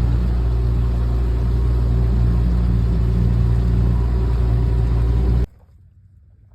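A boat motor runs steadily at a low, even pitch, then cuts off suddenly about five and a half seconds in, leaving only faint background noise.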